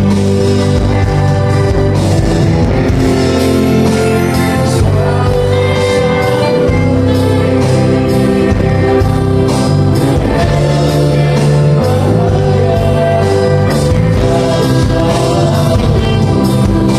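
A live band playing a song with a sung vocal over bass, guitar and drums, at a loud, steady level.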